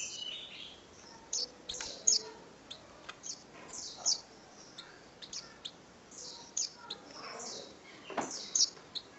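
Small birds chirping: many short, high chirps in quick, irregular succession.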